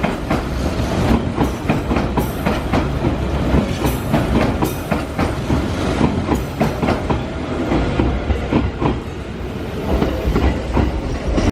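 Hanshin 5000 series 'Jet Car' commuter train pulling out of the station, its wheels clattering over rail joints in quick, irregular clicks.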